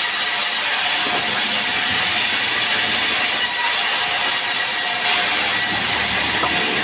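Sawmill saw cutting sengon timber: a steady, loud hissing whine that holds even throughout.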